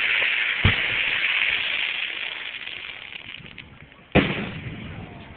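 Fireworks display: a sharp bang about half a second in over a loud crackling hiss that fades away over about three seconds, then a loud shell burst boom about four seconds in with an echoing tail.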